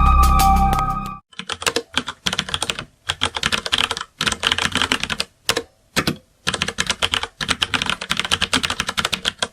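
Music ends about a second in, then rapid typing on a keyboard follows in several bursts of quick key clicks with short pauses between them.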